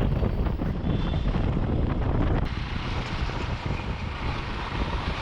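Motorcycle riding at road speed, a steady rush of engine and road noise with wind buffeting the microphone; it eases slightly about halfway through.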